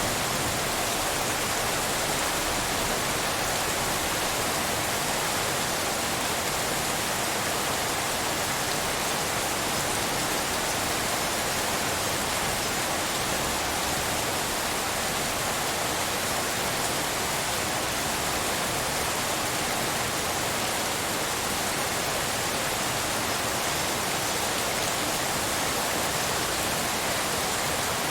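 Steady rainfall heard as an even, unbroken hiss like pink noise, with no single drops or thunder standing out.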